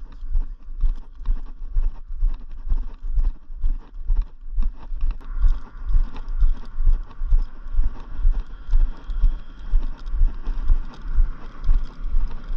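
Footsteps of a person walking at a steady pace, heard as low thuds about twice a second.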